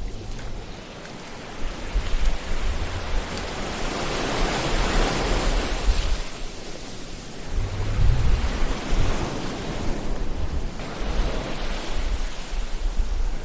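Ocean waves breaking and washing on a shore: a steady rush of surf that swells and ebbs, with the biggest surges about a third of the way in and again just past halfway, over a low rumble.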